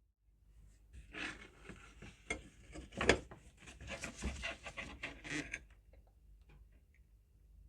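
Rusty steel scissors being handled and worked on a bench: a run of scraping and clicking metal sounds, loudest about three seconds in, tailing off into a few faint ticks.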